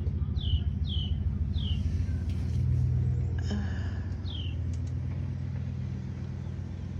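A bird's short downward-sweeping chirps, repeated about five times, mostly in the first two seconds, over a steady low motor rumble that swells a few seconds in and then eases.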